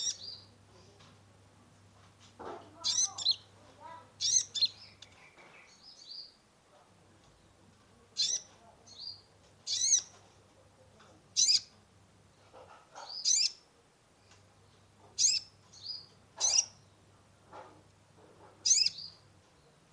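Kolibri ninja sunbird singing in short, sharp, high-pitched bursts every second or two, with a faint low hum underneath.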